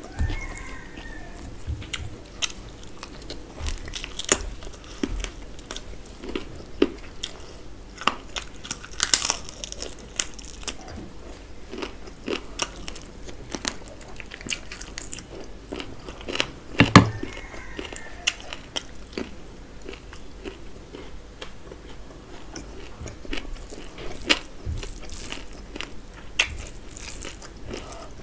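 Close-up chewing and biting of a person eating mutton off the bone with rice by hand: many small crunches and clicks, with one loud crack about seventeen seconds in.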